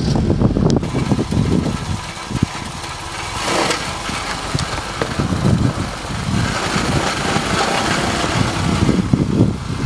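Mercedes-Benz 190 saloon's engine running at idle, with a brief louder rush about three and a half seconds in.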